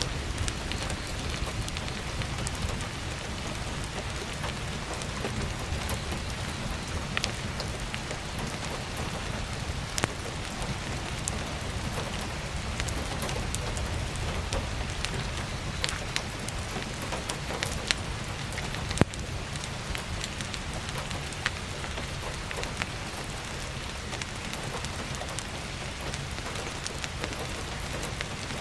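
Heavy rain falling steadily with a low rumble underneath, and scattered sharp pops of crackling firewood a few times across the stretch.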